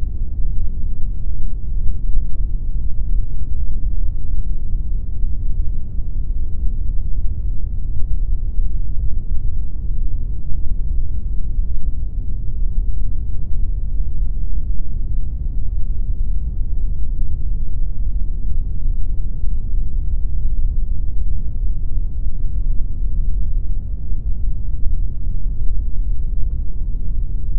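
Pink noise: a steady, unchanging noise, heaviest in the low end with a deep rumble and little high-pitched hiss.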